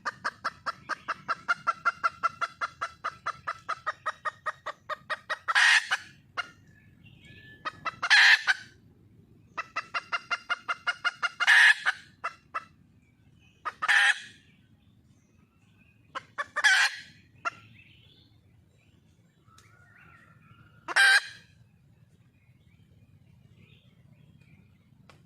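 Red junglefowl hen calling for a mate. It makes fast runs of clucks, about seven a second, each run ending in a loud harsh squawk. Further single squawks come a few seconds apart.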